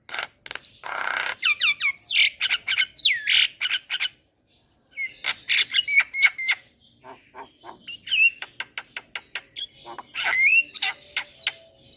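Javan myna singing a fast, varied run of sharp clicks, harsh squawks and whistled notes that glide up and down, with a short break about four seconds in.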